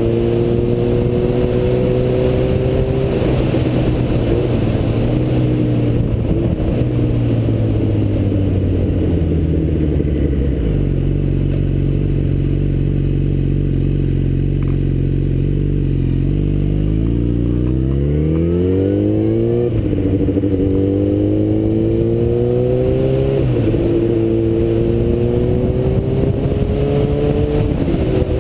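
Yamaha FZ1 motorcycle's inline-four engine with wind rumble. The engine note falls as the bike slows, settles low and steady for several seconds, then climbs again, dropping sharply at each upshift, twice in the last third.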